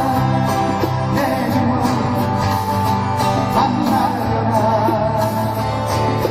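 Live band music: acoustic guitar and bass under a wavering melody line, with singing.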